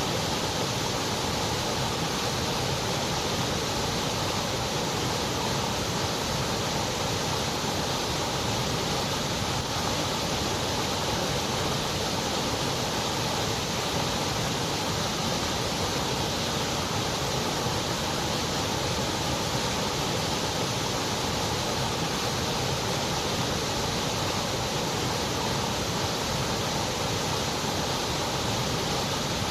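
Steady, unchanging electronically generated noise, a continuous even hiss with most of its energy below about 8 kHz, made as sleep and focus white noise.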